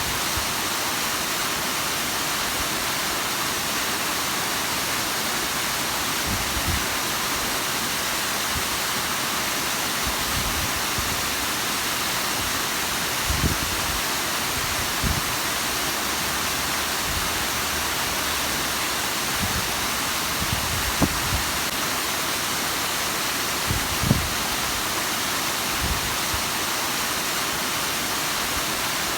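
Bigăr waterfall's water falling and splashing in a steady, even rush, with a few brief low thumps along the way.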